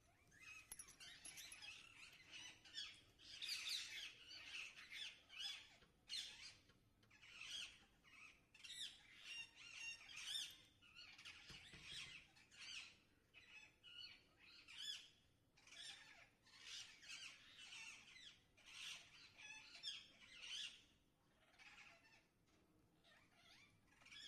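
Birds chattering, with a quick, continuous run of short squawks and chirps that thins out near the end.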